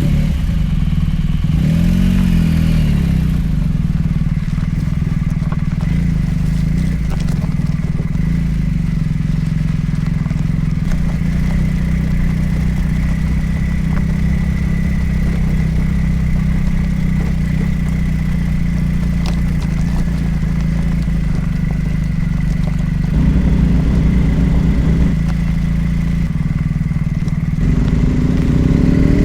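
Motorcycle engine running steadily under way, with a thin steady whine above the engine note. The engine sound changes slightly about three-quarters of the way through and again near the end.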